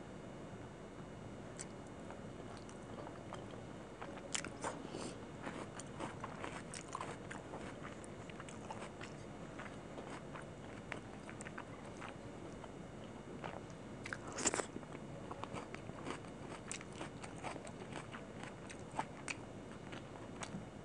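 Close-miked eating sounds of chicken kosha and rice eaten by hand: chewing with irregular wet mouth clicks and smacks, and fingers squishing rice through the gravy on the plate. The clicks grow busier about four seconds in, with the loudest smack about two-thirds of the way through.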